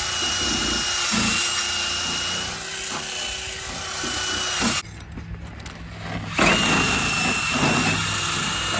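Power-driven wire brush wheel scouring a metal bumper, a steady high whine over scratchy grinding noise. It stops for about a second and a half midway, then starts again. The bumper is being cleaned of rust so the hinge welds will take.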